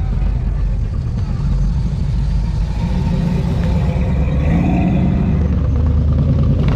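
A car engine running with a loud, low rumble, its note rising as it accelerates from about four and a half seconds in.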